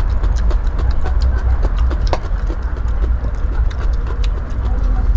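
Close-miked chewing of raw bitter melon: many irregular crisp crunches and clicks over a steady low rumble.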